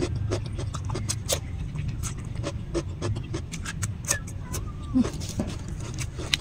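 Close-miked chewing of crunchy raw cucumber: a quick, uneven run of crisp, wet crunches and mouth clicks over a steady low rumble.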